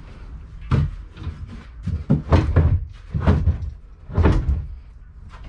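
Several heavy thuds and scraping bumps, spread over a few seconds, as a boat fuel tank is shoved and worked against the hull while being slid out.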